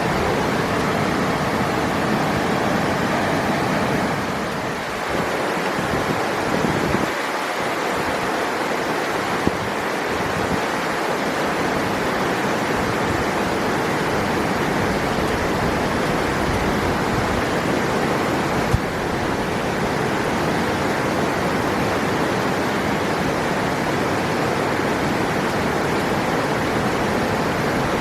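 River water rushing steadily over rocks in an even wash of noise, with one brief click about two-thirds of the way through.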